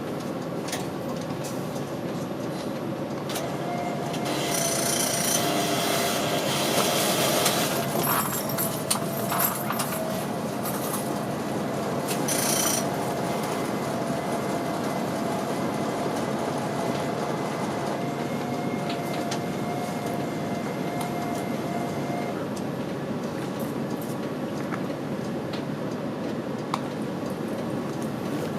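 Running noise of an older city route bus heard from on board: a steady rumble of engine and road, with a thin steady whine for much of the first two-thirds and a few short noisy bursts in the first half.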